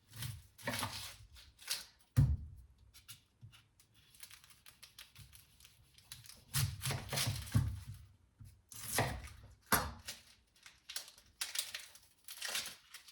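Crinkly rustling and tearing as an onion is unwrapped, coming in irregular bursts, with a few dull knocks on the cutting board.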